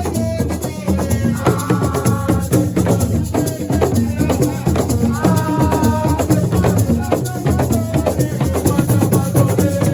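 Loud live music driven by drums and shaker rattles in a dense, steady rhythm, with a held melody line over it.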